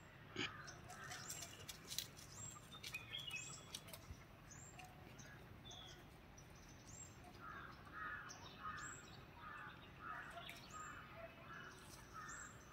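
Faint bird chirps: short, high, downward chirps about once a second, with a few faint clicks.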